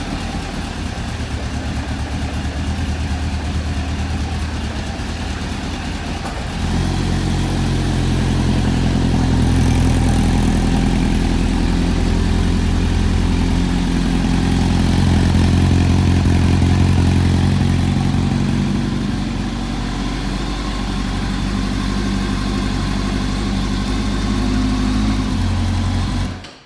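2001 Suzuki GSX600F Katana's inline-four engine running steadily, louder from about six seconds in, then stopping abruptly near the end.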